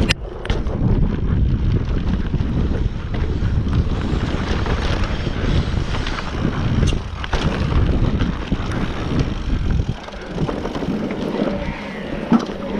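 Wind buffeting the microphone of a camera riding on a moving mountain bike, with the rumble of the ride and a few sharp knocks. The rumble eases about ten seconds in.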